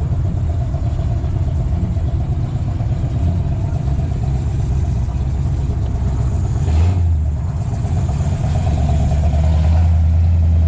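Car engine and road rumble heard from inside a slowly moving car, steady and low. There is a brief rushing swell about seven seconds in, and the low hum grows a little stronger near the end.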